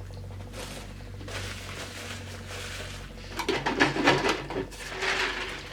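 Eating sounds from fried chicken gizzards and livers: crackly, irregular clicks and rustling, loudest in a burst of rapid crackles a little past halfway.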